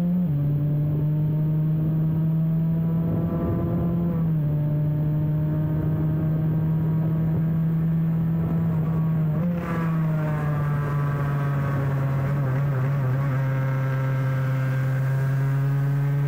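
Cagiva Mito's 125 cc two-stroke single-cylinder engine pulling hard at high revs on track. Its note steps down at upshifts about a third of a second and four seconds in, rising slowly between them. About ten seconds in the note drops and wavers, then climbs again.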